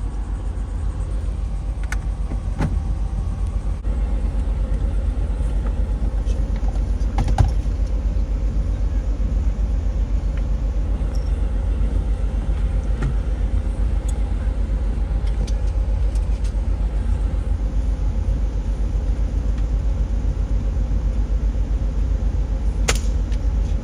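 Steady low rumble of a car, heard from inside the vehicle, with a few light clicks.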